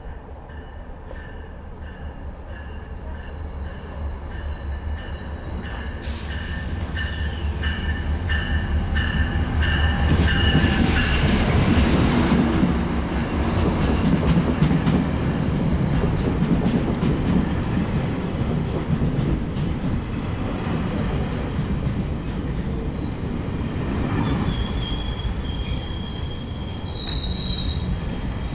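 GO Transit bilevel commuter train pulling into a station: its rumble grows louder as it approaches, peaks as the cars run past close by, then eases as it slows. About three-quarters of the way through, a high wheel-and-brake squeal starts as the train brakes to a stop.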